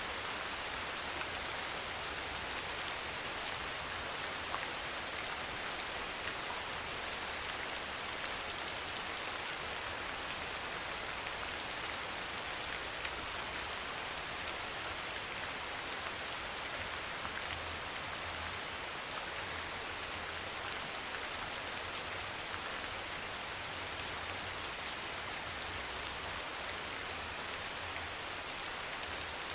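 Steady rain, an even hiss of many drops falling on a surface, with occasional faint single drop ticks.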